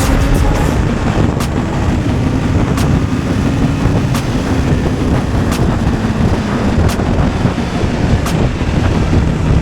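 Motorcycle engine running on the move, its note sinking slightly, under heavy wind rush on an action camera's microphone. A sharp tick comes about every second and a half.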